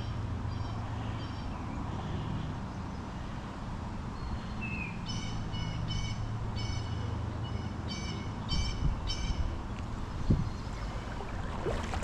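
A bird calling a quick series of short, repeated notes in the middle, with a few fainter calls at the start, over a steady low rumble of wind on the microphone. A brief low knock comes near the end.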